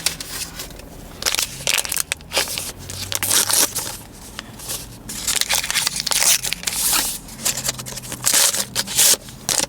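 Takeout packaging handled: irregular crinkling and crackling that comes and goes.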